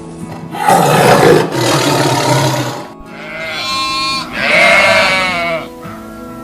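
Animal calls over background music: a long, loud, rough call starting about half a second in, then two shorter pitched calls.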